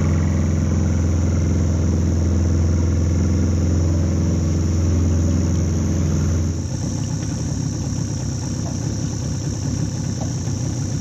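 Tinny's outboard motor running with a steady note; about six and a half seconds in the note breaks up and drops a little in level, with the engine still running.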